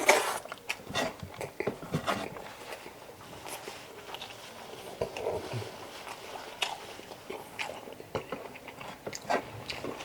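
Close-miked chewing and biting of chicken adobo, with wet mouth clicks and smacks at an irregular pace. The loudest bite or smack comes right at the start.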